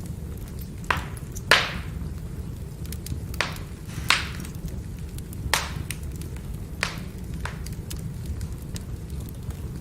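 Burning firewood crackling: about seven sharp, irregular pops and cracks over a low, steady rumble of the fire, the loudest about a second and a half in.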